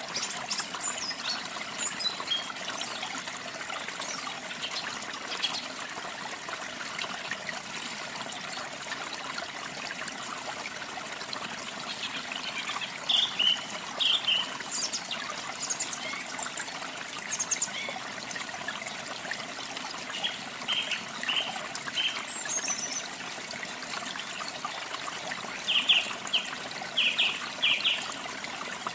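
Steady trickling, running water with small songbirds chirping on and off over it; the chirps come in short clusters, loudest around the middle and near the end.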